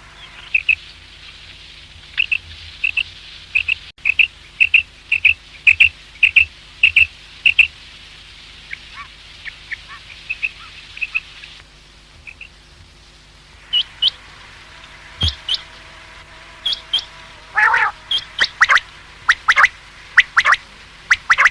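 Common quail calling: runs of short, sharp call notes repeated in quick succession, fainter for a few seconds near the middle, then louder and more spaced out in the second half.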